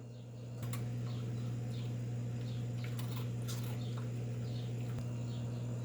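Small birds chirping faintly and repeatedly in short, falling chirps, over a steady low hum, with a few faint clicks.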